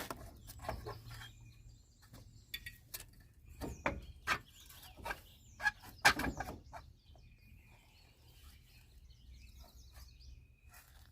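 Scattered metal clinks and knocks as a wheel hub assembly is worked back over the axle shaft, most of them in the first six seconds, with birds chirping faintly near the end.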